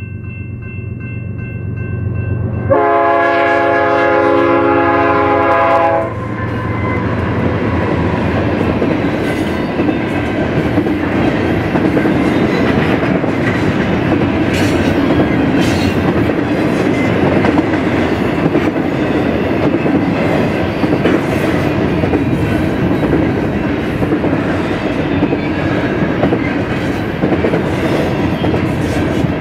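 An approaching BNSF diesel freight locomotive sounds one long, loud horn blast of about three seconds at the grade crossing. The train then rolls past, its steady rumble of wheels on rail marked by a regular clickety-clack of wheels over rail joints.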